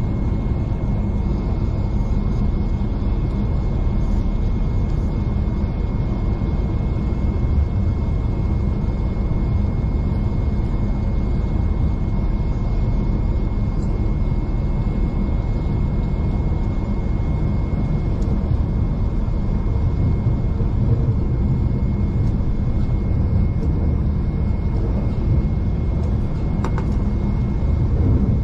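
V/Line passenger train running steadily, heard from inside the carriage: a constant low rumble of the train under way, with a thin steady high-pitched tone over it.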